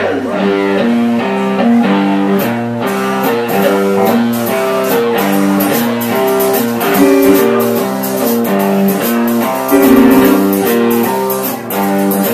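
Live blues-rock band playing a song's instrumental intro, led by guitar picking a repeating pattern of notes, with regular beats coming in about two seconds in.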